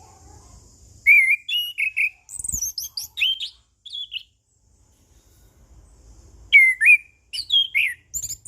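Orange-headed thrush singing: two phrases of varied whistled notes, rising and falling in pitch, with a short pause between them.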